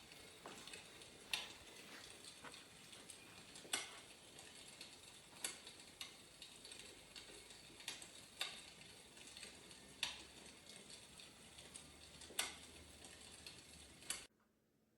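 Crackling-fire sound: a steady soft hiss with sharp pops every couple of seconds, cutting off abruptly near the end.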